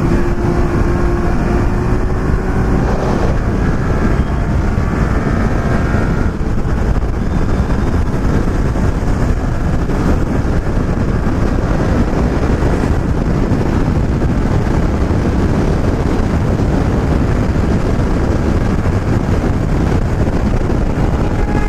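Motorcycle riding at speed: steady wind rush on the helmet microphone over the engine running steadily.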